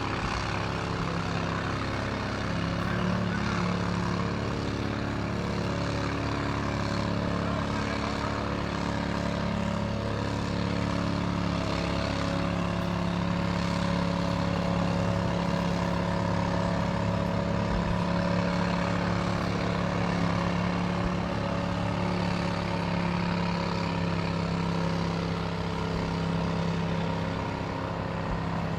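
Large engine running steadily at a constant speed, a low unchanging hum with a faint hiss over it, as from a fire engine parked at the scene.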